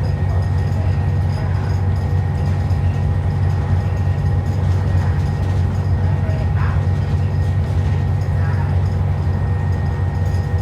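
ADL Enviro 400 double-decker bus running, heard from inside the bus: a steady low engine drone with a few faint steady tones above it.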